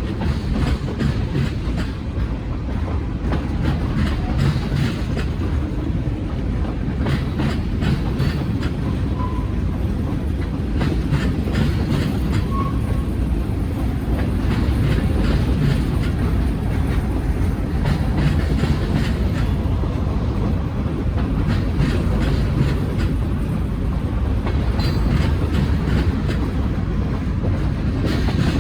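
Freight cars of a Norfolk Southern train rolling past, with wheels clicking over rail joints above a steady rumble.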